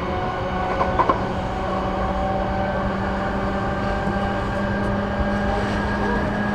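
Running noise heard inside an E233-8000 series electric train car: steady rumble from the wheels and rails, overlaid with the whine of the traction motors and inverter. A couple of short clicks come about a second in.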